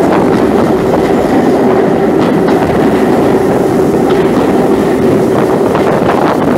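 Steam-hauled passenger coaches running along the track, heard from an open carriage window: a loud, steady rolling noise of wheels on rail with a steady hum.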